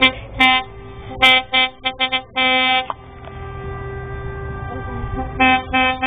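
Lorry air horns blasting in a run of short toots and one longer blast, then going quieter before sounding again near the end, over a low engine rumble.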